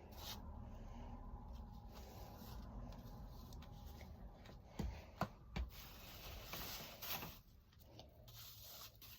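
Faint rubbing and rustling of something being handled, with a few short clicks or knocks around the middle.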